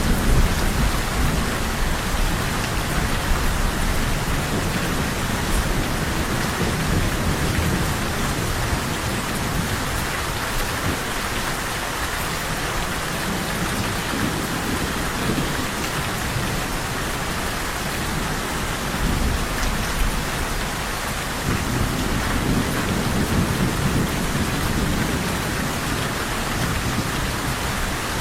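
Steady heavy rain falling, with low rolling thunder swelling in the first few seconds and again about two-thirds of the way through.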